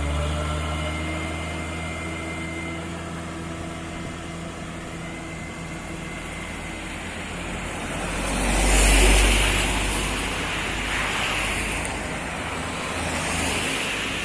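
Road traffic: a vehicle engine running at a low, steady pitch, then a louder vehicle sweeping past about nine seconds in, with a second, weaker swell near the end.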